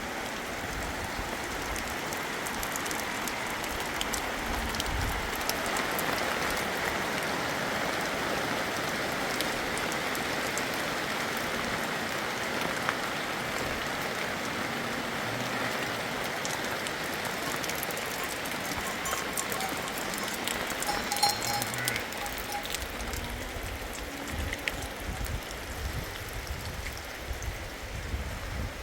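Steady rain falling, a dense even hiss, with a few sharp ticks of drops about two-thirds of the way through.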